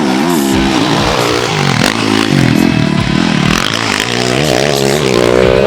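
Off-road rally motorcycle engines revving hard, their pitch rising and falling as the bikes pass, with a rush of noise around the middle and another engine climbing in pitch near the end.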